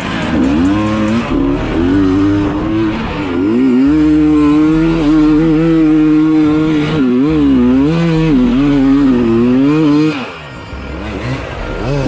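Dirt bike engine revving up and down, its pitch rising and falling over and over; it eases off about ten seconds in, then picks up again.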